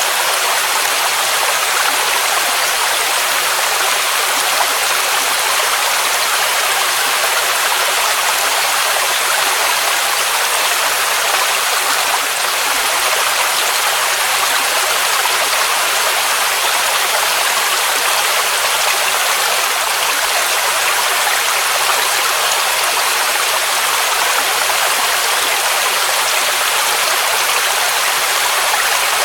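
Waterfall rushing: a steady, unbroken wash of falling water, bright and hissy, with little low rumble.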